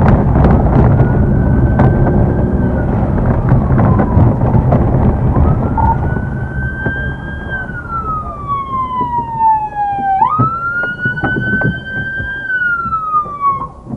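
Police car siren wailing in slow rising and falling sweeps, jumping up in pitch about two-thirds of the way through and cutting off at the end. Under it is the loud rumble of a patrol car driving fast in pursuit, which dies down in the second half.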